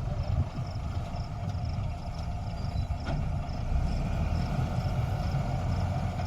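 Combine harvester running steadily with a low engine rumble. A faint high chirp repeats about two or three times a second over it.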